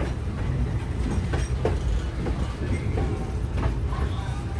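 Train rolling along the track, heard from an open end platform: a steady low rumble with irregular clicks and clacks from the wheels passing over rail joints.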